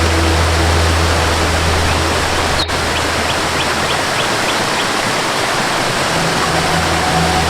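Steady rushing of a waterfall, with a soft low musical drone beneath it that fades out about three seconds in and comes back near the end.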